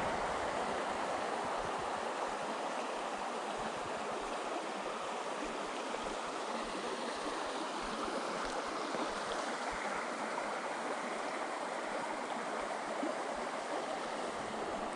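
Water of a small creek running steadily over shallow rapids, an even rush without breaks.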